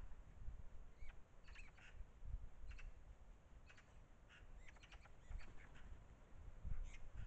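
Faint, short bird calls at irregular intervals, some coming in quick little clusters.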